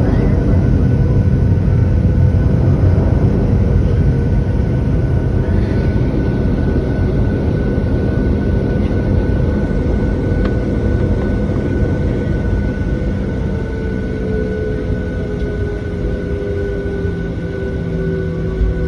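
Cabin noise of a Boeing 737-700's CFM56-7B jet engines at high power during departure: a heavy rumble with a steady whine. About halfway through, a tone slowly falls in pitch and the overall level eases slightly.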